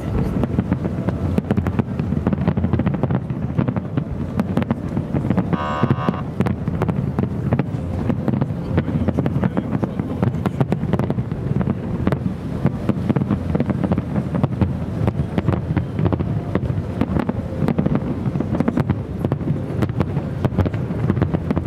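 Distant fireworks display: a continuous low rumble of bursting shells with dense, irregular crackling pops, and wind on the microphone. A brief pitched tone sounds about six seconds in.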